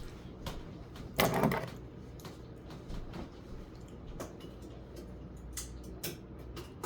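Light clicks and knocks of objects being handled, with one louder scraping burst lasting about half a second, starting about a second in.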